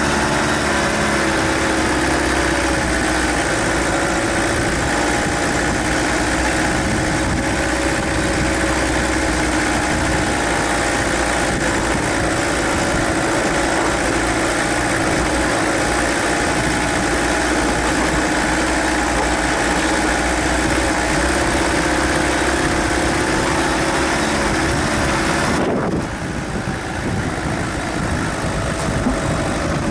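Suzuki Grand Vitara's 2.0-litre four-cylinder turbodiesel running steadily as the vehicle pulls up a dirt slope, heard from a camera on the bonnet. About four seconds before the end the engine note drops and quietens.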